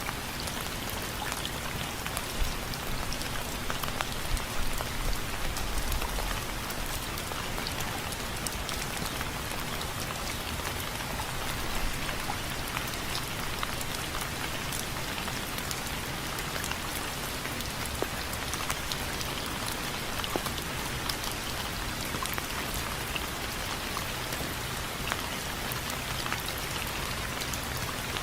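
Steady rain falling on window frames, with many individual drops ticking sharply against a constant hiss of rainfall.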